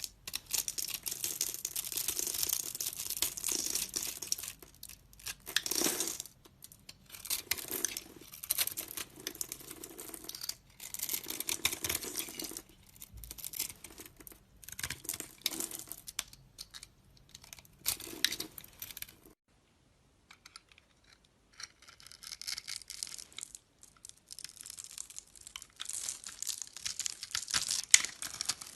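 A knife scraping and cutting through a bar of soap in repeated strokes of one to two seconds each, with short pauses between them. About two thirds of the way through it stops briefly, then resumes with lighter, finer scraping.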